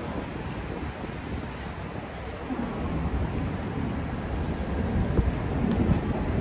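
City street traffic noise: vehicles passing with a steady low rumble.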